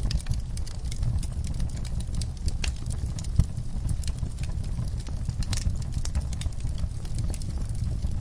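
Wood fire crackling in a fireplace: scattered small pops and snaps over a steady low rumble, with one louder pop about three and a half seconds in.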